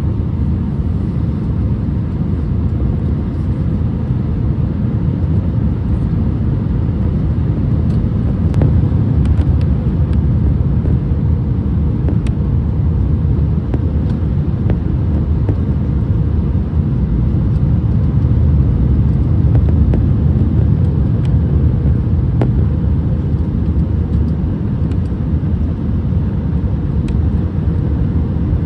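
Airliner cabin noise during landing: a steady, loud low rumble of engines and rushing air, swelling slightly about eight seconds in and again near twenty seconds.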